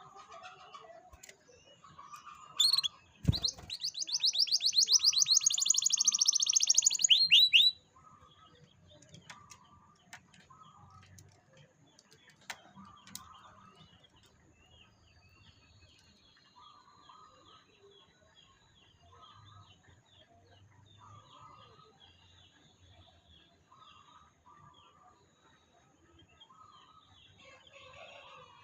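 Canary singing: a loud, very rapid trill of repeated high notes lasting about four seconds, a few seconds in, followed by faint scattered chirps.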